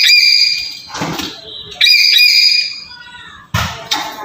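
Lory calling: clusters of short, loud, piercing whistled notes at the start and again about two seconds in, with harsh screeches in between.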